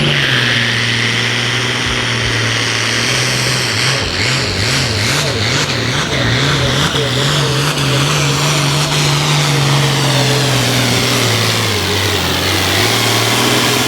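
Turbocharged altered farm pulling tractor engine (2.4-inch turbo) running hard at high revs through a pull, with a high turbo whine over it. The engine pitch wavers up and down for a few seconds partway through, then drops near the end.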